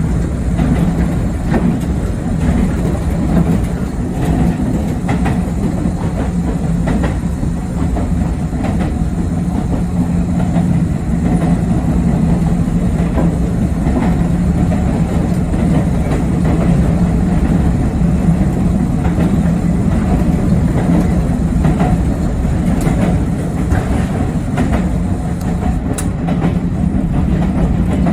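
Yoro Railway 7700 series electric train running steadily on the line, heard from inside the train: a steady low hum over a rumble, with scattered faint clicks of the wheels over rail joints.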